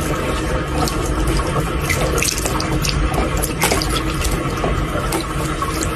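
Water running from a tap and splashing into a sink, a steady loud rush with small irregular splashes.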